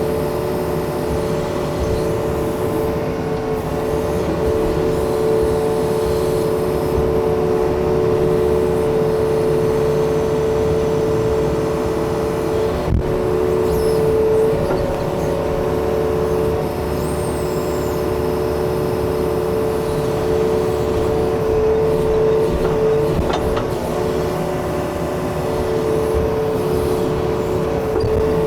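Yanmar excavator's diesel engine running steadily while working, with a steady high tone over the engine noise and a single sharp knock about thirteen seconds in.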